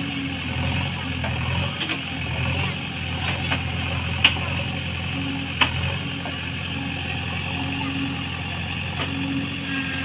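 JCB 3DX backhoe loader's diesel engine running steadily, with a few sharp knocks over it, the loudest two about four and five and a half seconds in.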